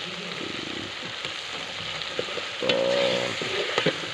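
Meat and masala sizzling in an aluminium cooking pot while a large steel spoon stirs it, with a few light clicks of the spoon against the pot. About two-thirds through, a brief pitched tone lasting under a second is the loudest sound.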